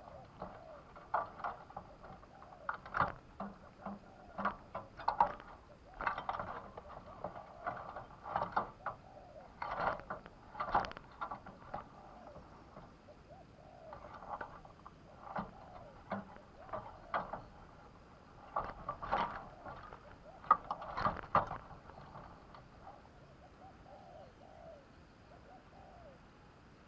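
Spotted dove calling in irregular bursts of short, sharp coo notes, dying down in the last few seconds.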